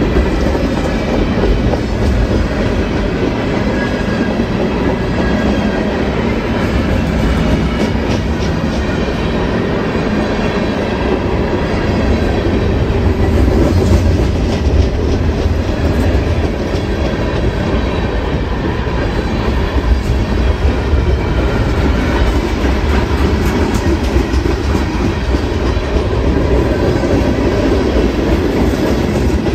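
Freight cars of a manifest train, covered hoppers and tank cars, rolling past close by: a steady rumble of steel wheels on rail with the clickety-clack of the trucks crossing rail joints.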